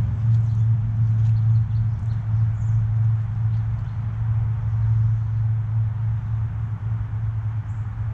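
A steady low rumble or hum, with a few faint, short high bird chirps over it now and then.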